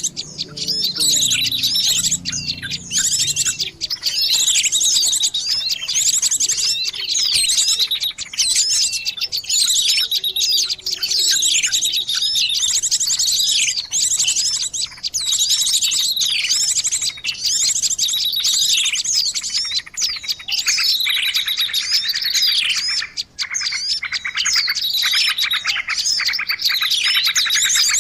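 A dense, noisy chorus of many small birds chirping and trilling over one another without a break: a bird-lure recording of busy flock chatter meant to draw other birds in.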